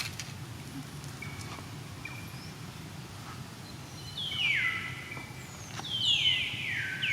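Animal calls outdoors: three high calls, each falling in pitch, about four seconds in, around six seconds and right at the end, over steady background noise.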